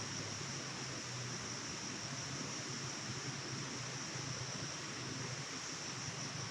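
Steady forest ambience: an even rushing hiss with a continuous high-pitched drone on top and a faint low hum, unchanging throughout.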